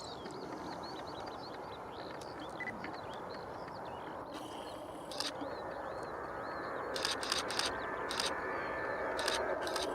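Steady jet engine noise from a Swiss Airbus A321 taking off, growing louder toward the end, with birds chirping over it early on. From about seven seconds in, a camera shutter fires in quick bursts.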